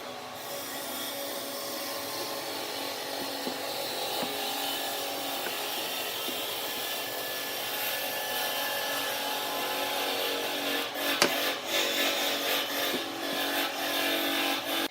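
Wood being cut on a wood lathe: a turning tool rubbing and scraping against the spinning workpiece in a steady rough noise, with a run of sharp clicks and knocks over the last few seconds.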